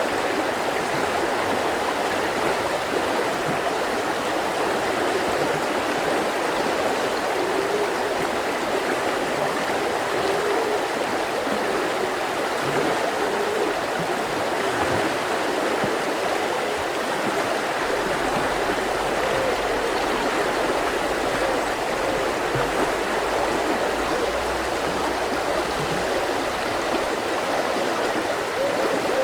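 Mountain river flowing over rocks: a steady rush of water with a light gurgle.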